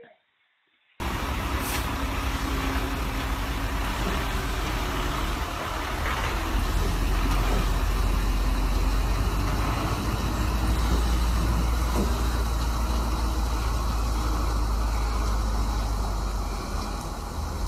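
Loud, steady rumble of a motor vehicle with dense noise over it, cutting in suddenly about a second in after near silence.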